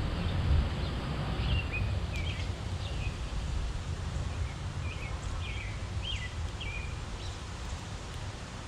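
Small backyard songbirds chirping: short falling chirps, one every half second to a second, over a steady low rumble.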